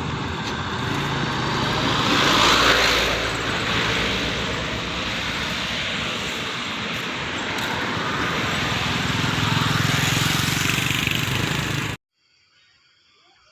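Motor vehicle engine and tyre noise on the road, swelling loudest about two seconds in and again near the end, then cutting off abruptly.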